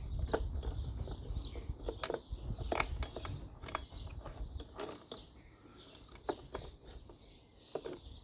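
Light clicks and taps of a screw and hand tools against the metal engine parts while the cylinder head screws of a McCulloch GBV325 leaf blower's 25 cc two-stroke engine are fitted by hand, over low handling noise that eases off about halfway through.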